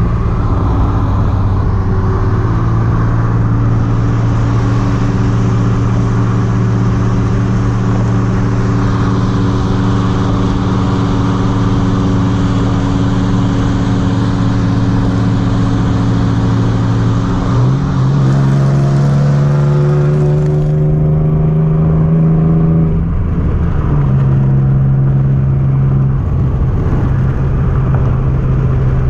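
Subaru WRX STI's turbocharged flat-four engine running at a steady cruise. About 18 seconds in, its pitch steps up and climbs for a few seconds under acceleration, then drops back and holds steady again.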